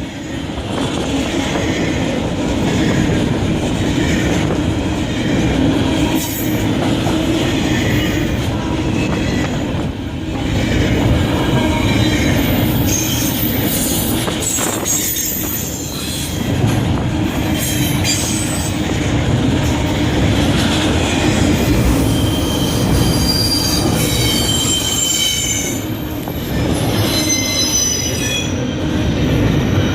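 Railroad cars rolling past with a continuous rumble and clatter of wheels on the rails. High-pitched wheel squeal comes and goes, loudest in the second half.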